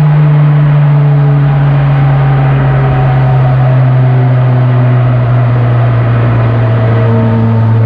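Kia K5 (DL3) 1.6 turbo four-cylinder with a tuned aftermarket exhaust, driving under light load with a steady exhaust drone whose pitch sinks slowly as the revs ease off.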